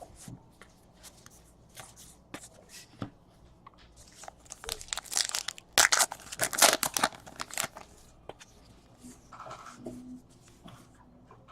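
A trading-card pack wrapper being torn open and crinkled, with light clicks and flicks of cards being handled. The tearing and crinkling come thickest in the middle.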